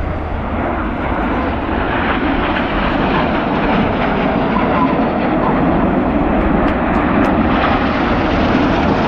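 BAE Hawk T1 jets passing in a display, a steady jet roar that builds gradually.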